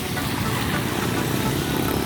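Steady street traffic noise, with vehicle engines running in a traffic jam.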